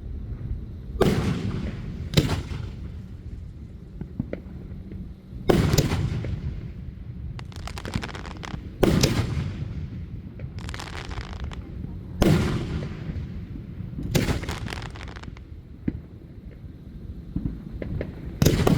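Aerial fireworks bursting: a sharp bang every two to three seconds, about seven in all, each ringing out after, with spells of crackling between them over a steady low rumble.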